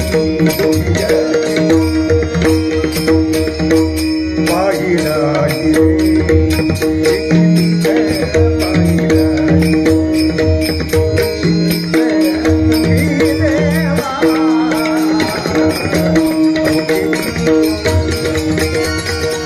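Bhajan music: held harmonium-like chords over a hand drum's rhythmic low strokes and steady ticking of small hand cymbals, with a wavering melodic line coming in twice.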